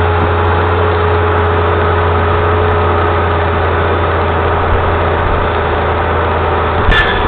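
A steady, unchanging low mechanical drone like an engine running at idle.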